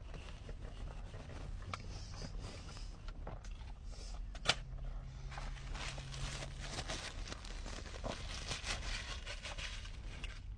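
Close-miked eating of fast food: chewing with many small clicks and crackles, and one sharp click about four and a half seconds in. The crackling grows denser in the second half.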